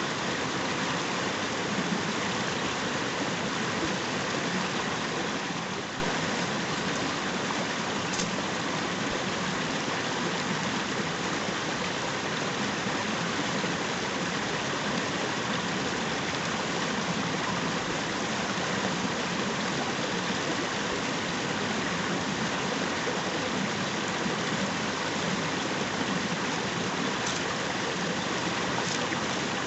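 Steady rush of a fast-flowing river, an even hiss of running water, with a brief drop in level about six seconds in.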